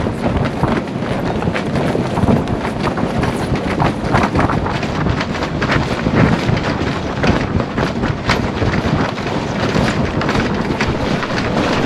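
Wind buffeting the microphone on the deck of a sailboat, with irregular clattering and knocks throughout.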